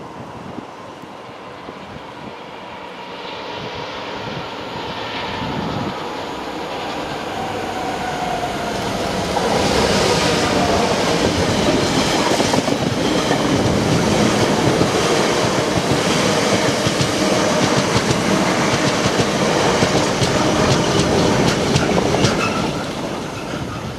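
A freight train headed by a Class 66 diesel locomotive approaches and passes, growing louder over the first ten seconds. Then its wagons roll by with a steady rumble and rhythmic wheel clatter over the rail joints, which fades near the end.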